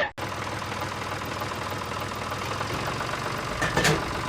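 A small motor running steadily with an even low rumble, with a brief sharp click or knock near the end.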